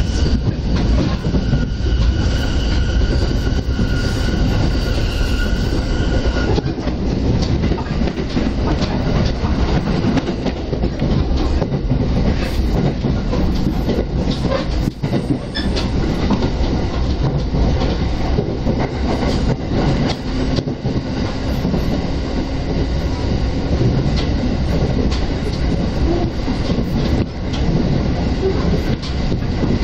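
JR Keiyō Line electric commuter train running at speed, heard from inside the passenger car: a steady rumble of wheels on the rails. For about the first six seconds a high steady whine sits over it, then stops.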